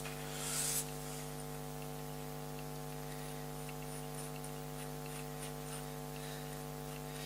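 A steel bolt being tried by hand in a freshly tapped tee nut: a short metallic rattle about half a second in, then faint light ticks, over a steady hum.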